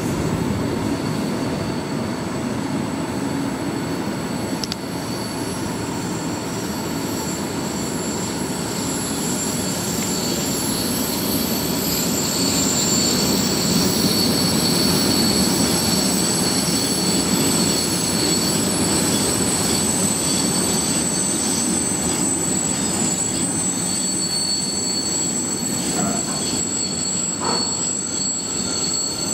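Freight train of container and swap-body flat wagons rolling past: a steady rumble of wheels on rail with thin, high wheel squeal that grows stronger from about midway.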